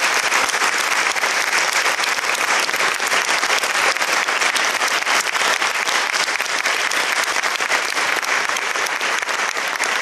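Audience applauding steadily after a song recital, dense clapping with no music.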